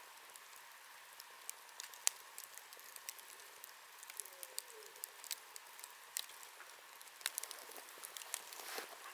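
Wood fire crackling: irregular sharp pops and snaps over a steady soft hiss, the loudest pop about two seconds in.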